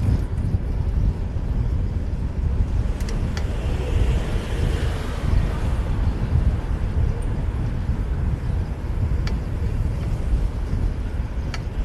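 Wind buffeting the microphone of a camera on a moving bicycle, with city traffic around it; a passing vehicle's hiss swells and fades in the middle, and a few sharp ticks stand out.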